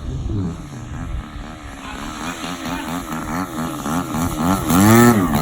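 DLE 60 twin-cylinder two-stroke petrol engine of a large RC aerobatic plane running through 3D manoeuvres, its pitch rising and falling again and again as the throttle is worked. The loudest rise and fall comes near the end.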